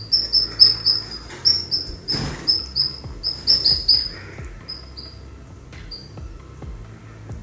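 Small caged pet bird chirping: short, high calls, each dipping slightly in pitch, about three a second for the first four seconds, then sparser. A brief rustle about two seconds in.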